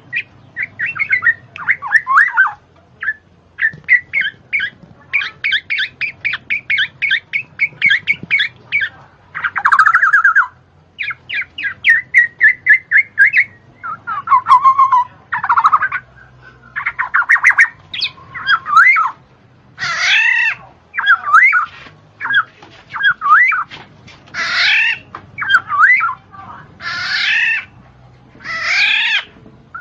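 Birds calling: rapid trains of high chirps, then loud harsh squawks repeated about once a second in the second half.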